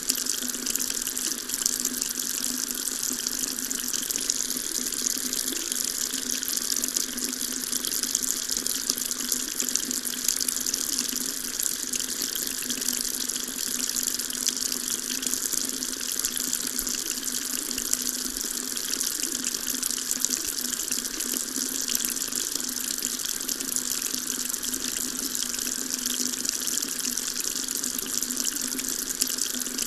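Water tap running steadily, the stream splashing into a sink with an even, unbroken hiss.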